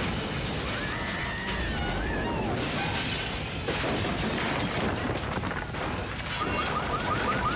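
Noisy disaster aftermath: a dense rushing din with scattered cracks and clatters. About six seconds in, a car alarm starts up with rapid rising chirps, about four a second.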